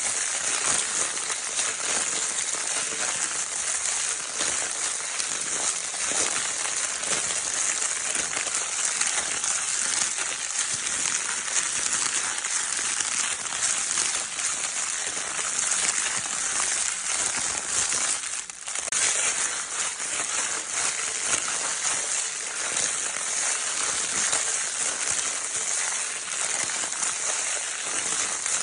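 Baby crinkle paper toy being crinkled without pause: a dense, steady crinkling rustle, with a brief lull about eighteen seconds in.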